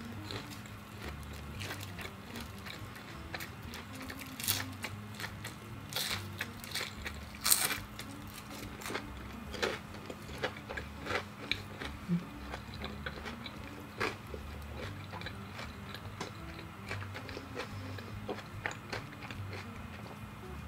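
Close-up chewing of deep-fried battered enoki mushroom, with sharp crunches scattered through, thickest in the first half and loudest about seven and a half seconds in, then softer chewing toward the end. A faint steady hum runs underneath.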